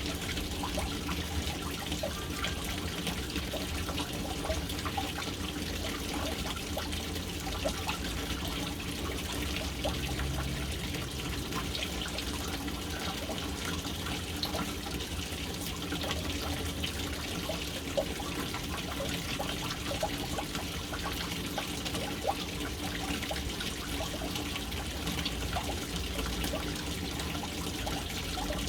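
Water falling steadily into a household water tank from its float-valve inlet: a continuous splashing trickle with many small drips and plinks scattered through it.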